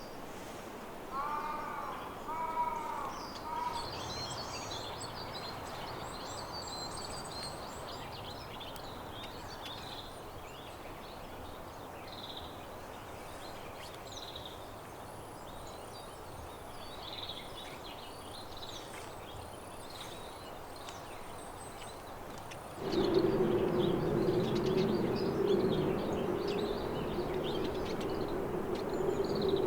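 Small songbirds chirping and calling high and thin, with a few crow caws about two seconds in. About 23 s in, a louder, steady low hum with a droning tone comes in abruptly and continues.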